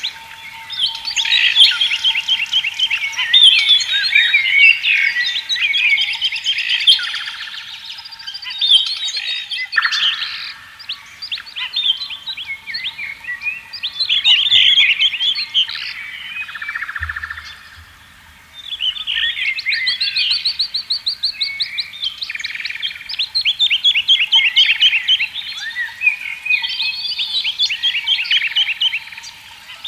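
Several songbirds singing at once, with overlapping chirping and trilled phrases that go on with short pauses and ease off briefly about two-thirds of the way through.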